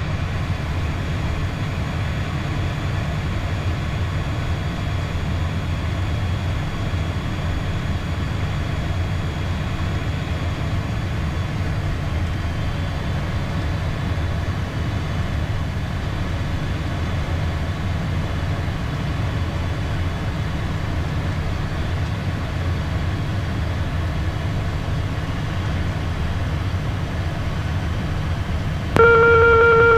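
Steady low cockpit drone of a Beechcraft Premier 1A business jet on final approach. About a second before the end, a loud steady multi-tone alert starts abruptly: the autopilot disconnect warning.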